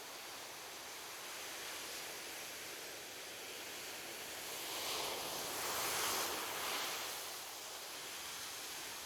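Ocean waves breaking on a beach: a steady wash of surf with one wave swelling and breaking louder around the middle, then subsiding.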